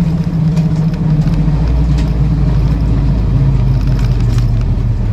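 The 2.25-litre four-cylinder petrol engine of a 1966 Land Rover Series IIa 88-inch soft top, running on the move. Its note drops about halfway through as the vehicle slows under braking.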